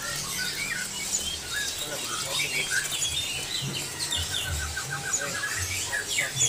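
A crowd of small caged songbirds chirping and squeaking at once, a dense jumble of short, high calls. A little past the middle one bird gives a quick run of about a dozen repeated notes. A low hum sits underneath.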